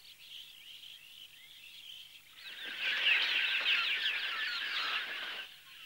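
A flock of birds chirping: faint at first, then a dense chorus of many overlapping chirps swells for about three seconds before fading near the end.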